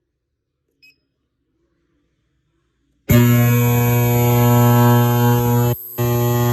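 Ultrasonic unit under test: a short beep about a second in, then about three seconds in a loud, steady buzz with hiss starts abruptly and drops out once briefly near the end.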